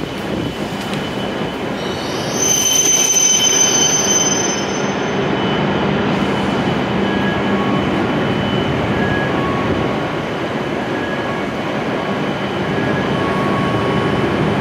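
A W7 series Shinkansen train slowing to a stop at the platform, with a high brake squeal for a few seconds about two seconds in. After that comes a steady hum from the standing train.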